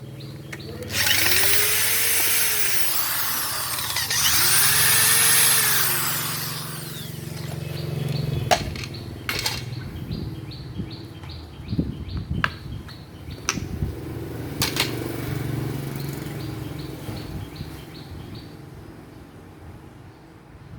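A handheld power tool runs in two bursts of about two seconds each, its pitch rising and then falling. After that come scattered sharp clicks and knocks of parts being handled, fading toward the end.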